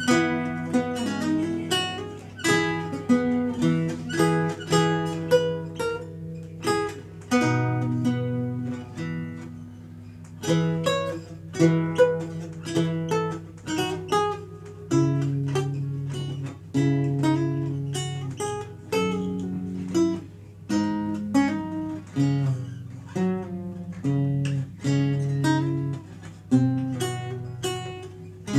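Renaissance lute played solo: plucked single notes and chords that each ring and fade, in phrases separated by short pauses.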